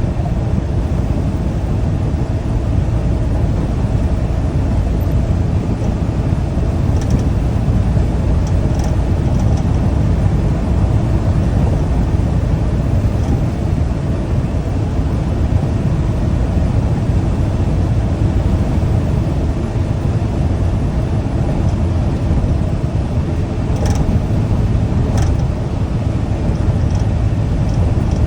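Steady low rumble of a semi truck on the road, heard from inside the cab: engine and tyre noise, with a couple of faint clicks near the end.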